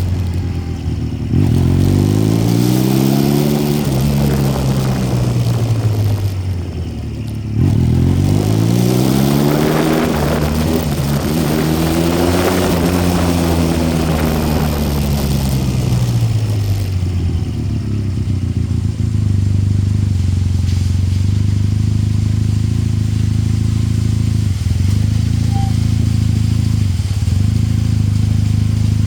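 Motorcycle engine on the road, its pitch climbing and falling away twice in the first half as the rider speeds up and eases off, with a rushing noise in the middle, then running at a steady pitch for the last twelve seconds or so.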